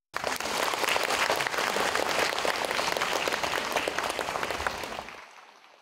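Audience applauding: many hands clapping together. It starts suddenly and dies away over the last second or so.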